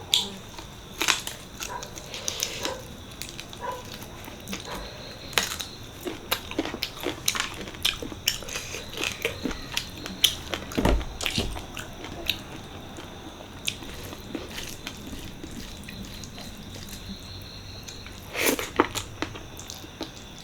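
Close-up eating sounds of mutton paya curry with rice: chewing and biting with irregular wet smacks and clicks, and one heavier low thump about halfway through.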